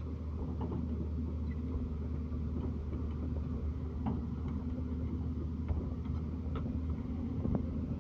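Diesel engine of heavy machinery running steadily at low speed, with faint scattered clicks and knocks over the hum.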